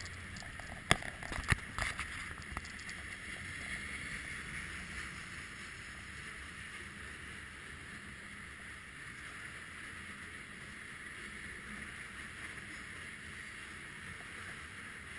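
Freight train of covered hopper cars rolling past close by: steady wheel-on-rail noise. A few sharp knocks in the first two seconds, the loudest of them about a second in.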